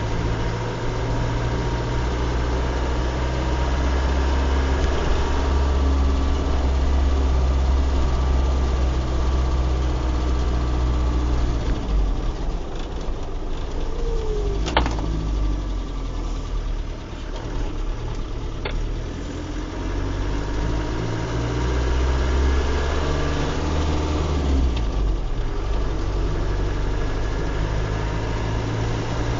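Car engine and road noise heard from inside the cabin while driving on a wet road: a steady low drone that changes pitch in steps and eases off for several seconds midway, with two sharp clicks about halfway through.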